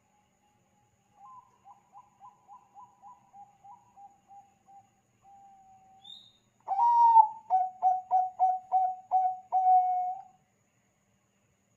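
Zebra dove (Thai-bred perkutut bangkok) singing: a faint phrase of quick, evenly repeated coo notes trailing off into a longer held coo, then a louder phrase about a second later that opens on a higher note, runs through a string of clipped coos at about three a second and ends on a held coo.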